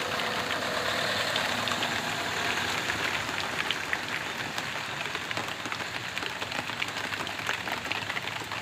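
Heavy rain falling on a street: a steady hiss with many sharp little drop hits. A faint vehicle engine hum runs under it for the first second or so.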